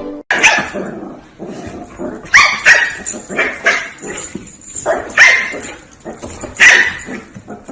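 A dog barking repeatedly in short, sharp barks at an uneven pace, several in quick succession a couple of seconds in.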